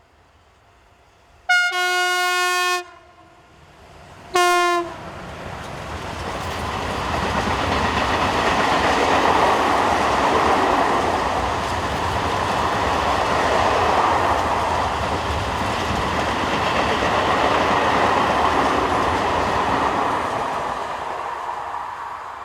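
Horn of a RENFE Class 253 electric locomotive sounding twice, a long blast then a short one. An empty freight train follows, passing with the rumble and rattle of its wheels and wagons, which swells, holds and fades near the end.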